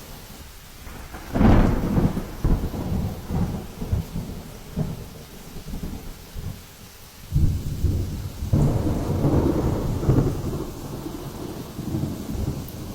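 Hurricane storm noise: a heavy, uneven low rumble of wind and rain. It surges loudest about a second and a half in and again from about seven seconds in.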